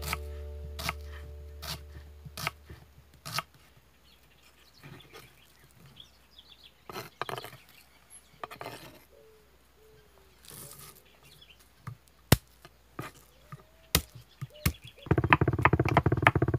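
Kitchen knife chopping on a wooden cutting board: scattered single chops through onion, then a fast run of rapid chops near the end as garlic is minced.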